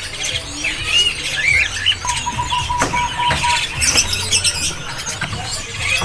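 Caged songbirds chirping and squeaking: many short high calls overlap. About two seconds in, one steady high note is held for about a second and a half. A low steady hum runs underneath.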